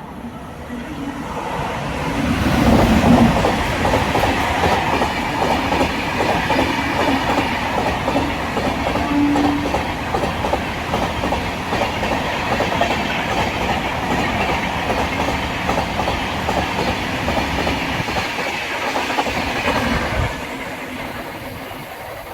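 Express train passing at high speed: loud rumble and a rapid clatter of wheels over rail joints, swelling about two seconds in, holding steady, then fading away near the end.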